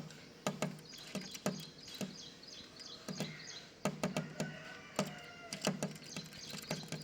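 Small birds chirping faintly, with many irregular sharp taps or clicks throughout.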